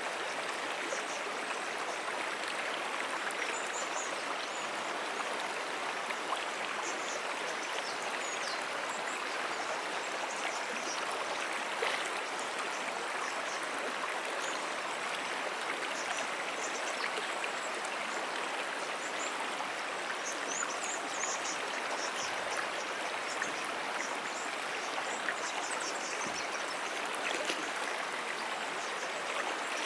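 Shallow freshwater brook flowing steadily over stones, an even rushing and trickling babble, with faint short high chirps now and then.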